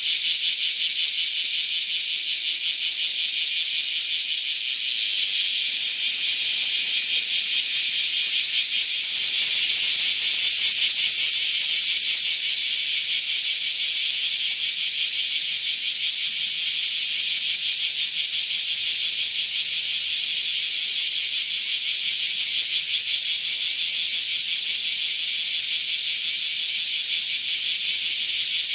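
Cicada calling: a continuous high, rattling buzz made of very fast pulses, holding a steady loudness.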